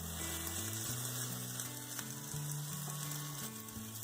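Potato slices sizzling in butter on a hot griddle, with a steady hiss and light scraping clicks as a spatula pries the pieces apart. Low background music plays under it.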